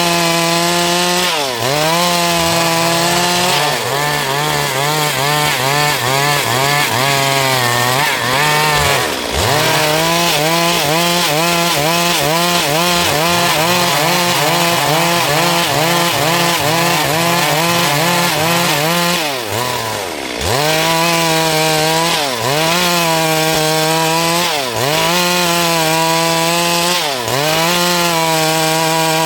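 Stihl MS 382 two-stroke chainsaw cutting through dry wood under load. Its engine pitch dips and recovers every couple of seconds as the bar bites, with a quicker rhythmic wobble of about two a second through the middle stretch.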